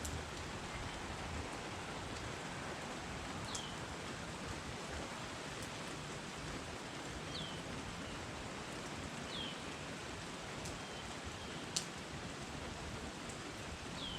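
Steady rain falling, with a few sharp drip clicks and some short, high notes falling in pitch every couple of seconds.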